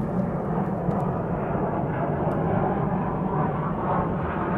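Jet aircraft flying overhead: a steady low engine rumble.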